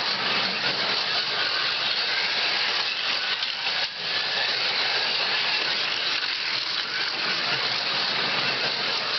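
Carrera Go 1:43 slot cars running flat out around a plastic track: the small electric motors and the cars on the track make a steady high noise, with a brief drop about four seconds in.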